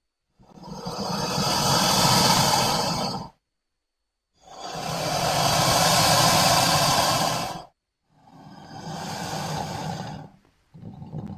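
Designed creature sound effects for the giant prehistoric crocodile Sarcosuchus: three separate breathy, hissing growls of about three seconds each, each swelling and fading, with a low rumble beneath. The third is quieter, and another short one begins just before the end.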